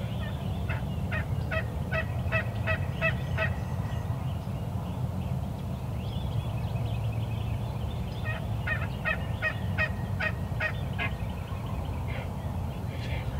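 Turkey yelping: two runs of about eight to ten evenly spaced yelps, about four a second, the first about a second in and the second about eight seconds in, over a steady low rumble.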